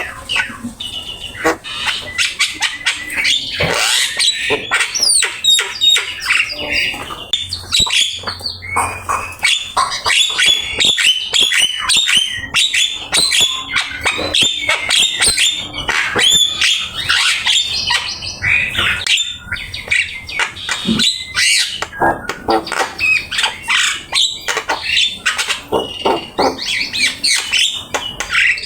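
Javan myna (jalak kebo) singing: a long, unbroken run of rapid chattering notes, whistles and harsh squawks.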